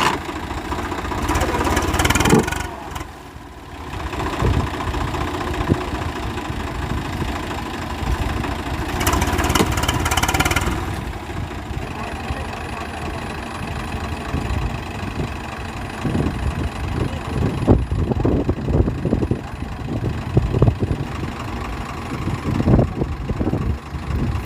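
Farm tractor's diesel engine running, with two louder stretches, about two seconds in and again around nine to eleven seconds, and a more uneven, thumping run in the later part.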